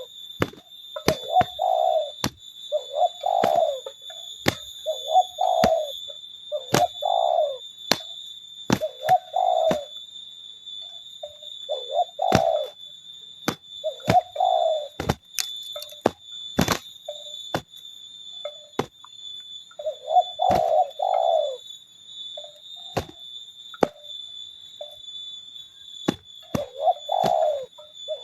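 Spotted doves cooing over and over, with many sharp clicks and knocks scattered between the coos and a steady high-pitched tone running underneath.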